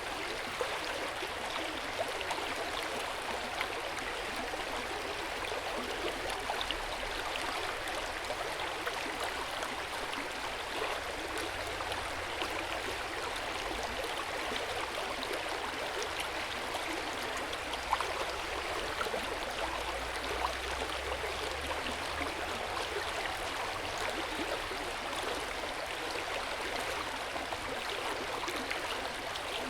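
Hot-spring water flowing and gurgling into an open-air bath: a steady splashing with small droplet ticks scattered through it.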